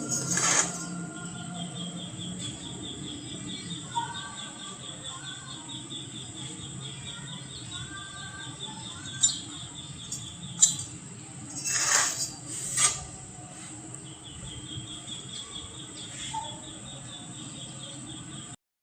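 Outdoor ambience: an insect trilling in a fast pulsed high tone, stopping and starting again, over a steady high whine and a low hum, with a few bird chirps and several sharp clicks near the middle. The sound cuts off abruptly near the end.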